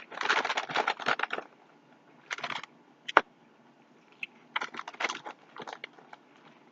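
Crunching of Cheez-It cheese crackers being chewed close to the microphone, in irregular bursts with a sharp crack a little after three seconds in.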